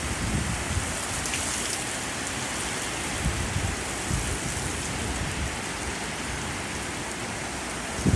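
Steady heavy rain in a severe thunderstorm, an even hiss with low rumbling wind buffeting underneath.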